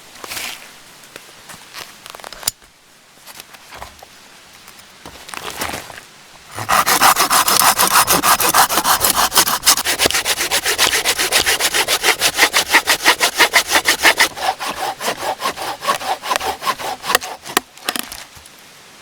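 Hand saw cutting through wood in quick, even back-and-forth strokes, starting after some light handling noises about six seconds in and slowing and fading just before the end.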